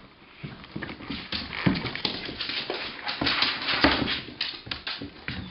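A dog yelping and whimpering in a rapid, irregular run of short cries, louder from about a second in: the dog's reaction to being pinched by a pinch bug.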